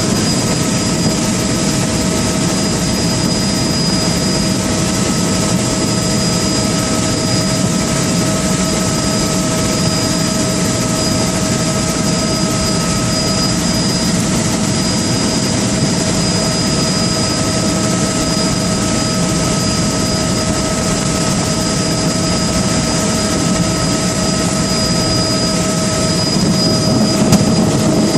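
Steady aircraft engine drone with a constant high whine, unchanging throughout.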